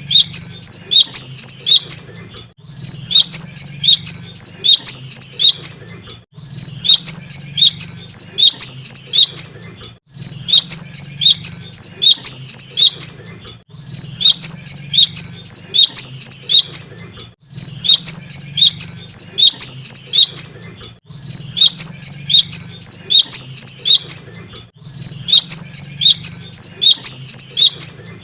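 Cinereous tit (gelatik batu) singing: a rapid run of high chirping notes in phrases about three seconds long, repeated the same way about every three and a half seconds with short pauses between.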